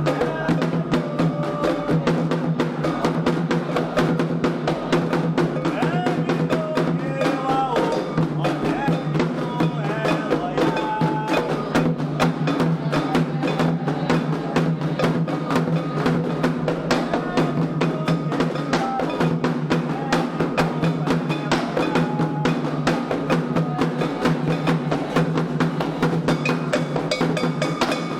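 Candomblé ritual drumming: a dense, fast, steady rhythm of hand drums with voices singing over it.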